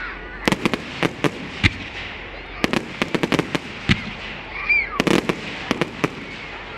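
Fireworks going off: clusters of sharp bangs and crackling pops in three bursts.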